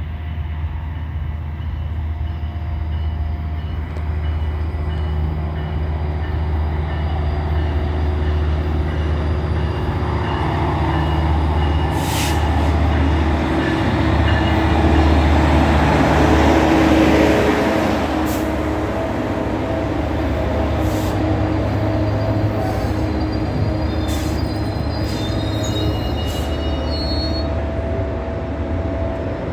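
Metrolink commuter train arriving at the platform. The diesel locomotive's low engine drone and rumble build to their loudest as it passes close by about halfway through, then the bilevel coaches roll past, with faint high wheel squeals near the end as the train slows.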